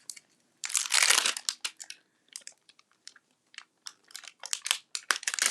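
Crinkling and crackling of a clear stamp set's plastic sheet and case being handled as a stamp is picked out: a longer crinkle about a second in, then a run of short crackles and clicks that comes thicker near the end.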